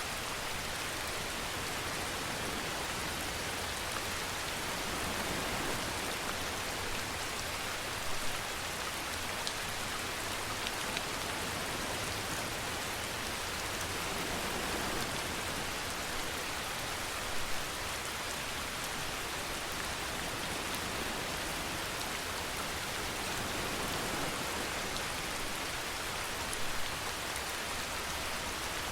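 Steady rain falling, an even hiss with a few louder drops tapping now and then.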